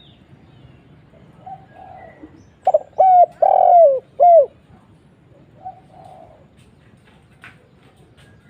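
Spotted dove (tekukur) cooing: about 3 seconds in it gives one loud phrase of four falling notes, the third drawn out longest. Softer coos come before and after it.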